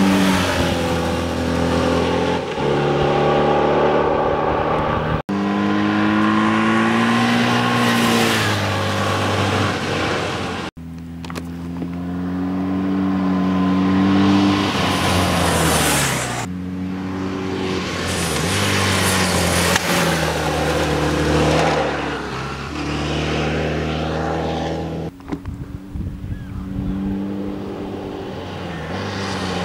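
BMW R1100GS air-cooled boxer flat-twin engine revving through corners, its pitch climbing under acceleration and falling away off the throttle as the bike passes. The sound breaks off abruptly a few times where separate passes are cut together.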